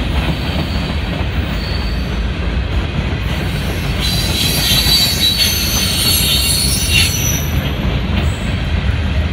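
Freight cars of a long mixed freight train rolling past, with a steady low rumble of wheels on rail. A high-pitched wheel squeal rises over the rumble from about four seconds in and fades by about seven seconds.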